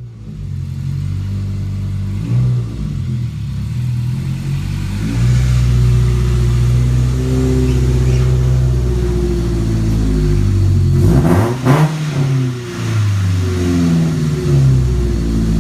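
Mazda Tribute's engine running and revving as the SUV is driven on its newly replaced axle, the pitch climbing and dropping several times, with a brief noisy burst about eleven seconds in.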